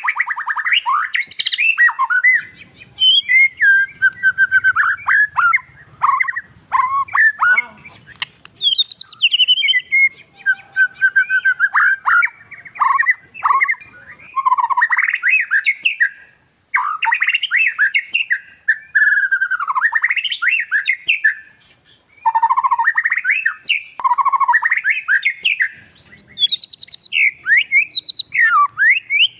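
Oriental magpie-robin (kacer) singing in full voice: a loud, varied string of rapid whistled, trilled and chattering phrases, barely pausing.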